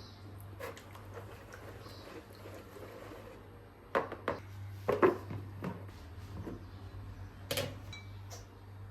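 Kitchen handling sounds: a few sharp knocks and clinks of dishes or containers being picked up and set down, mostly about four to five seconds in and again near the end, over a steady low hum.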